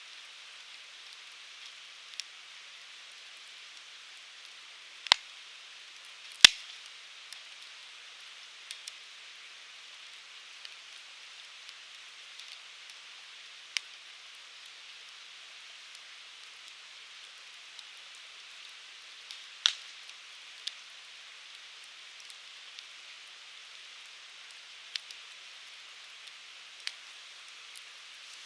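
Firewood burning in a Uniflame Fire Grill: a steady hiss of flame with scattered sharp crackles and pops. The two loudest pops come about a second and a half apart a few seconds in, and another strong one comes past the middle.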